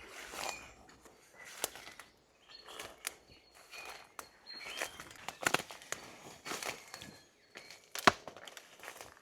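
Footsteps crunching irregularly over the forest floor, with a few sharper snaps among the steps.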